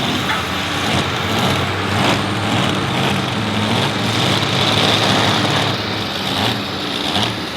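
Dodge Ram pickup truck's engine running hard under load as it pulls the sled, its pitch wavering up and down.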